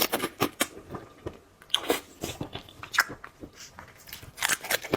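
Close-miked eating of seafood: biting and chewing, heard as irregular crackles and clicks that are busiest at the start and again near the end.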